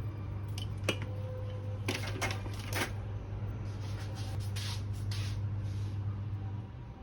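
Rustling and a few sharp clicks of things being handled, over a steady low hum.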